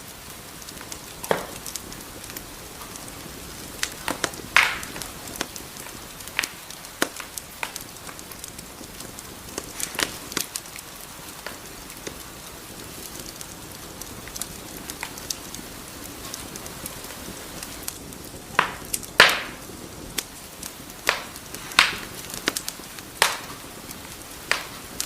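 Wood fire crackling in a fireplace: a soft steady hiss of burning logs broken by irregular sharp pops and snaps, the loudest pop about three quarters of the way through.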